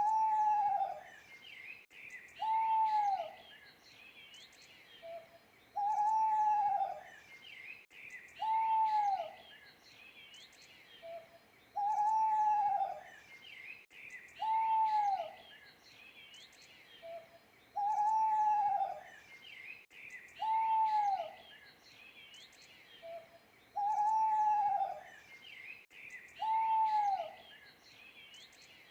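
Owl hooting in a repeating cycle about every six seconds: a short soft note, then a hoot that rises and falls in pitch, then a second hoot about three seconds later. Small birds chirp faintly underneath.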